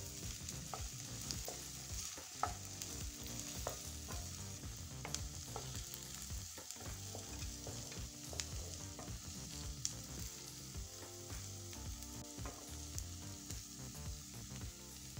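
Diced potatoes and onions sizzling in hot oil in a nonstick frying pan while a wooden spatula stirs them, with irregular clicks and scrapes as the spatula hits the pan.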